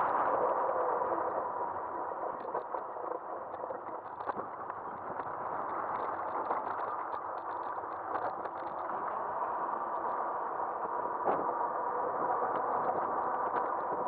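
Riding noise of an electric bike picked up by an action camera mounted on its front end: steady tyre and road noise with a faint steady whine, and small rattles and clicks scattered throughout.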